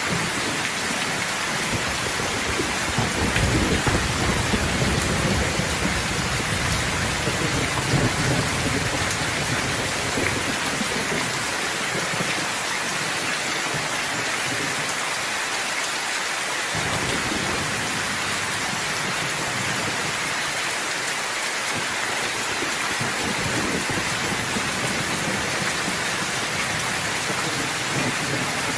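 Steady rain falling, with a low rumble of thunder rolling through during roughly the first ten seconds before fading back to rain alone.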